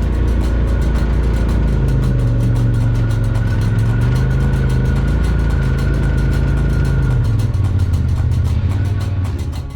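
Side-by-side UTV engine running while driving a trail, its pitch rising and falling with the throttle, with a thin steady whine above the engine note. The engine sound drops away near the end.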